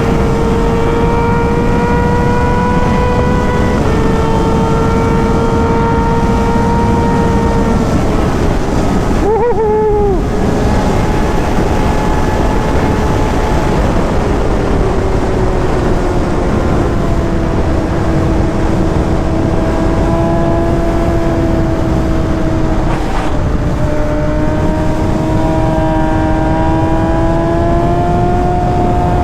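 Inline-four sport bike engine running at speed under heavy wind noise. It holds a high, steady note, and a gear change about ten seconds in drops the pitch. The note then climbs slowly as the bike pulls again.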